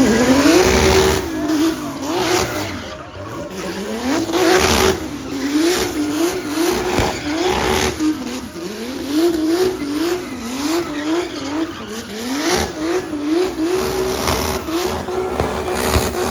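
A car engine revved hard again and again, its pitch climbing and falling back more than a dozen times, then held steady at the top near the end, with tyres squealing: a car doing a burnout or drifting.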